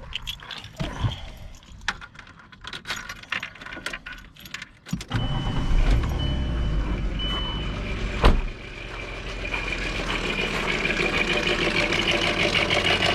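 Keys jangling and clicks, then a VW Eurovan's VR6 engine starts about five seconds in, with a high beeping tone for a couple of seconds and a sharp knock a little after eight seconds. The engine then idles, getting louder, with the rattle at idle that the owner places over the exhaust manifold and wonders may be a stuck lifter.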